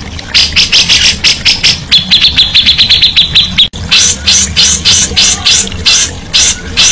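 Cucak jenggot (grey-cheeked bulbul) singing a fast string of repeated high, harsh notes, about six or seven a second, with a quicker run of sharper notes in the middle. The sound cuts out for an instant a little past halfway, then resumes.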